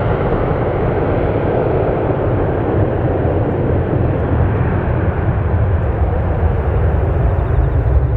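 Boeing 737-800's CFM56-7B jet engines at takeoff power: a loud, steady rumbling noise whose higher part fades slightly over the seconds.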